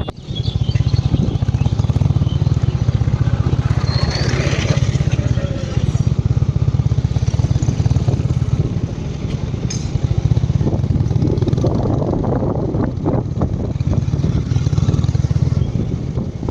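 Motorcycle engine running steadily under way, a dense low rumble with wind noise over it.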